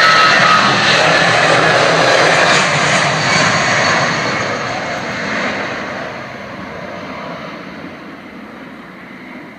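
Airbus A320 jet airliner's engines at takeoff power, a loud rushing roar that fades steadily over the second half as the aircraft climbs away.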